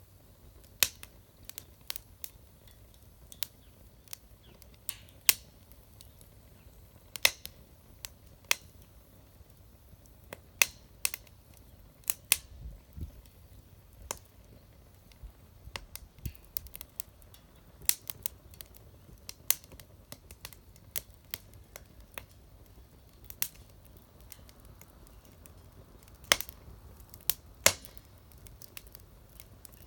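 Campfire crackling: sharp, irregular pops and snaps, some much louder than others.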